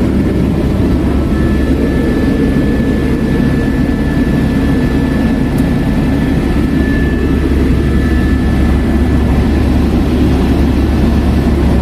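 Helicopter in flight heard from inside the cabin: a loud, steady engine and rotor drone with a faint high whine over it.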